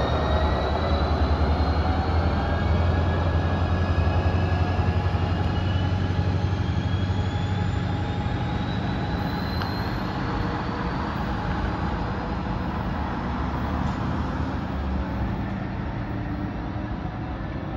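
Amtrak Hiawatha Service train pulling away and accelerating. Its low rumble fades as it recedes, while thin whines rise steadily in pitch.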